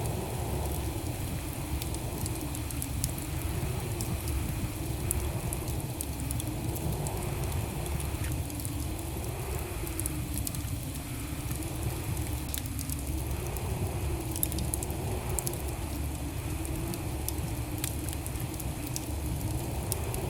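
Wood fire burning in a fireplace: scattered sharp crackles and pops over a steady low rumble of the flames, with a faint hum that wavers up and down about once a second.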